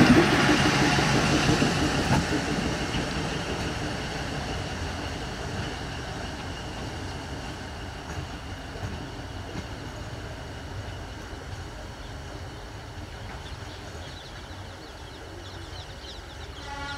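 Old ICF diesel electric multiple unit (DEMU) train pulling away, its running noise loud as the coaches pass close at first, then fading steadily as the train draws off down the line.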